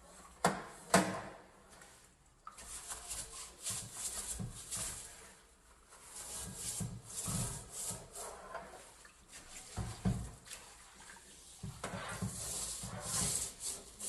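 Repeated scrubbing strokes while cleaning a dirty stove, uneven in pace, with a sharp knock about a second in.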